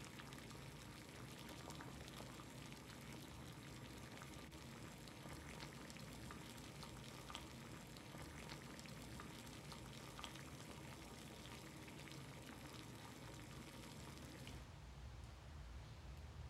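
Faint, fine crackle of trickling water, dense with tiny ticks, which cuts off suddenly about fifteen seconds in and leaves a low hiss.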